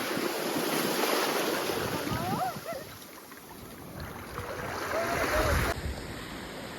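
Sea surf and wind buffeting the microphone as a steady rushing noise, with a few faint short chirps. The noise drops a little near the end.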